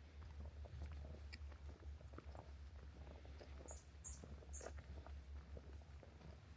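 Faint footsteps crunching along a forest trail, with a bird giving three short high chirps a little over halfway through.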